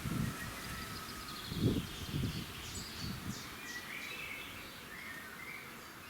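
Several songbirds chirping and trilling at dawn, with a few low rumbles of wind noise in the first half.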